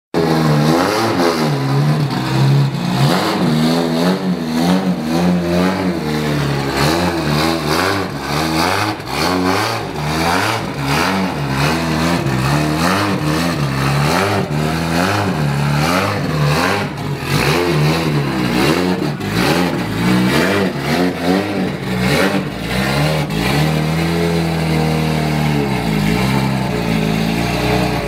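Toyota Cresta JZX90's turbocharged 1JZ inline-six with an HX35 single turbo, external wastegate and 3-inch exhaust, running on its first start-up with the new setup and revved over and over, the revs rising and falling. It holds a steady idle for a couple of seconds near the end.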